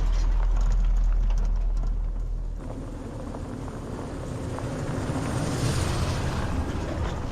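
A vehicle driving, a steady low engine and road rumble. About two and a half seconds in the sound drops and changes, then builds again with a swell of hiss.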